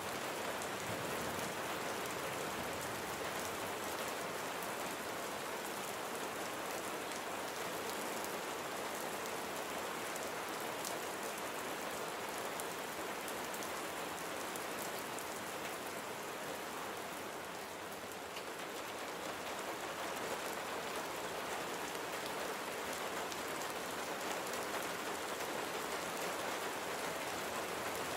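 Steady rain falling on a surface, a constant hiss with many fine drop ticks, easing a little about two-thirds of the way through.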